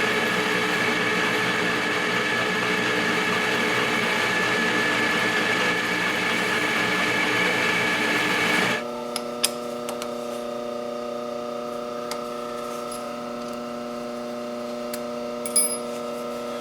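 Metal lathe turning a 6061 aluminum bar while a triangular cutter swung on a boring head cuts the sphere: cutting noise over the lathe's steady whine. About nine seconds in the cutting stops and the lathe runs on with a steady hum, with a few light clicks.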